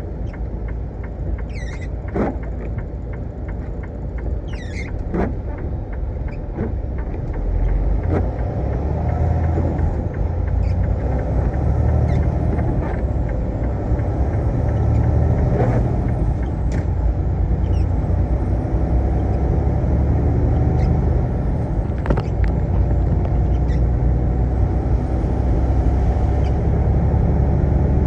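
Semi-truck running down the road: steady engine and road rumble that grows louder about eight seconds in and holds there, with a few light clicks.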